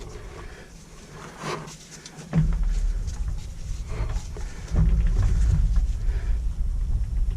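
Knocks and clicks of parts being handled during hand reassembly of a strimmer, over a low rumble that comes in about two seconds in and grows louder near the middle.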